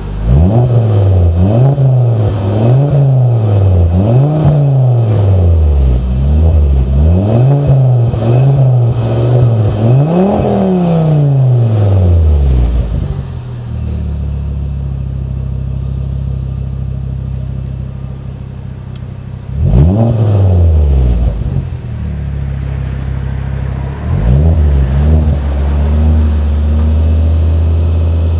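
Ford Mondeo Mk4 2.5T's turbocharged five-cylinder engine, heard through a custom exhaust, revved in about six quick blips in a row, then settling to a steady idle. It is revved once more about twenty seconds in, again a few seconds later, and again at the very end.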